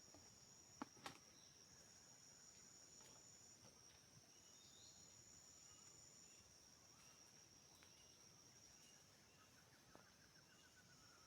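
Faint chorus of forest insects: a steady high-pitched trill, with short repeated chirps over it. Two sharp clicks about a second in.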